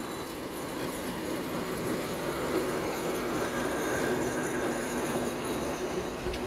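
Passenger train hauled by an Alsthom diesel locomotive rolling slowly past on the station approach tracks: a steady rumble of coach wheels on rails, with a faint wheel squeal about two seconds in.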